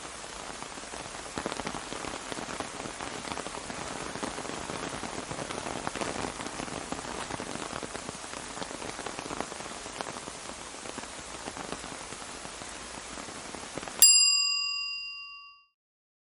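Steady rain falling on an umbrella, which cuts off abruptly about fourteen seconds in. A single bright bell ding follows and rings out, fading over about a second and a half.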